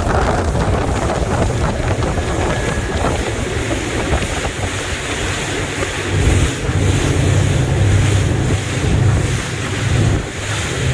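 High-powered motorboat running at speed, heard from aboard: a steady low engine rumble under rushing water and wind buffeting the microphone.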